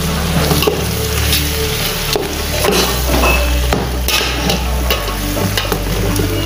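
Chicken pieces and tomato paste sizzling in an aluminium pot while a spoon stirs them, scraping and clicking against the pot's metal sides and bottom.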